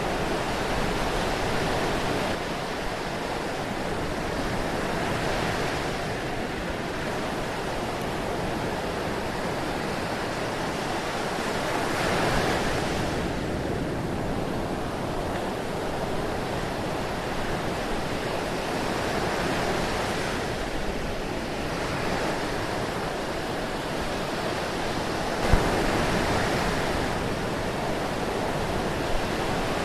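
Ocean surf: a continuous rush of breaking and washing waves that swells every several seconds, with a short click near the end.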